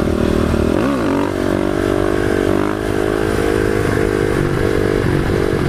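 Supermoto motorcycle engine held at high revs during a knee-knocker wheelie, with a brief rise and fall in revs about a second in, then running fairly steadily with small throttle changes.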